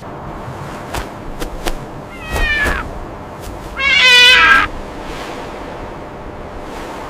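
Two meow-like animal calls, the second louder and longer, over a steady background hiss, with a few sharp clicks before them.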